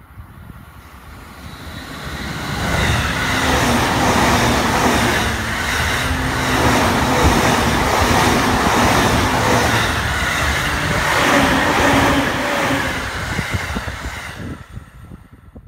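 A JR East Takasaki Line electric commuter train in orange-and-green stripes passes close by at speed. Its wheels make a rhythmic clatter over the rails, with a hum underneath. The sound builds over the first few seconds, stays loud as the cars go by, and drops off sharply near the end as the last car clears.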